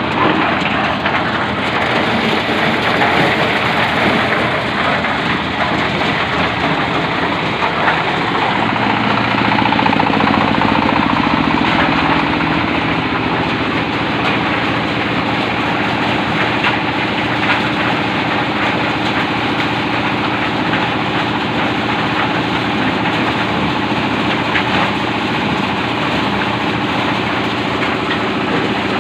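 Corn-shelling machine running under load as husk-on ears of corn are threshed: a loud, continuous mechanical roar with rattling. About nine seconds in it settles into a steadier hum.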